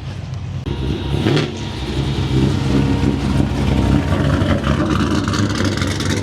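Car engine running close by, getting louder about a second in and then holding steady.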